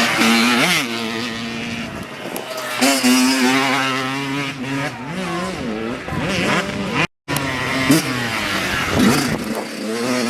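Youth dirt bike engines revving up and down as they ride, more than one engine's pitch at once. The sound cuts out for a moment a little past the middle.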